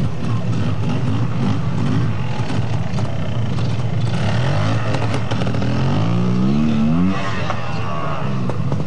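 Trials motorcycle engine running at low revs under throttle control, revved up in rising steps from about five seconds in and dropping back at about seven seconds.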